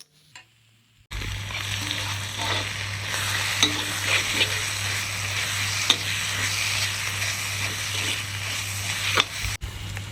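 Curry masala sizzling as it fries in a pan and is stirred, with scattered scrapes and taps of the spoon against the pan. The sizzle cuts in suddenly about a second in, over a low steady hum.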